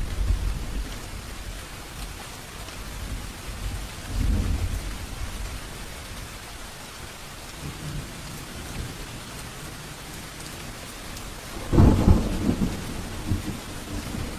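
Thunderstorm: steady heavy rain falling, with low rolls of thunder near the start and about four seconds in, and a louder, sharper thunderclap about twelve seconds in that rumbles on toward the end.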